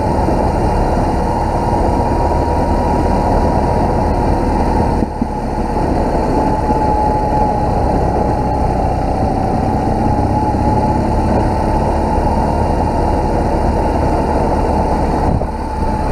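BMW R1200GS boxer-twin motorcycle engine running steadily under way, its loudness dipping briefly about five seconds in and again near the end.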